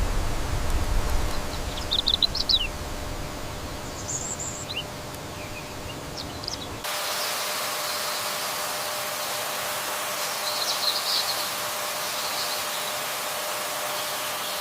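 Outdoor ambience with scattered short bird chirps. A low wind-like rumble fills the first half, then the background cuts abruptly to a steady hiss with a few more chirps.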